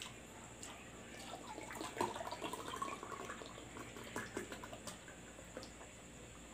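Close wet chewing and lip-smacking of braised pork knuckle: a run of small sticky clicks and squelches, busiest from about two seconds in.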